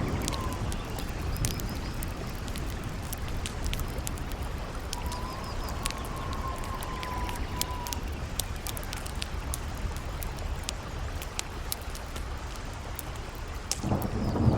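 Campfire crackling with irregular sharp pops and snaps over a steady low rush of river water and wind. A faint wavering wind howl comes and goes in the middle, and a louder low rumble swells near the end.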